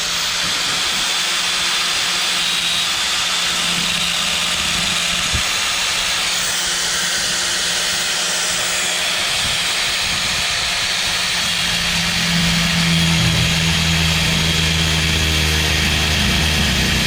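Metal-cutting power tool running steadily with a loud hiss, cutting steel on a manure spreader's apron chain. A deeper, steady engine-like hum grows louder about twelve seconds in.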